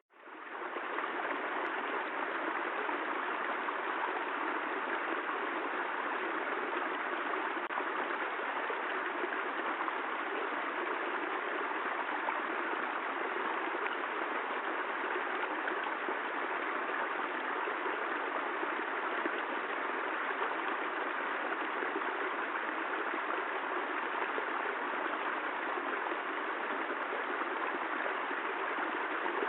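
Steady, even rain noise with no thunder, cutting out at the very start and fading back in over about a second.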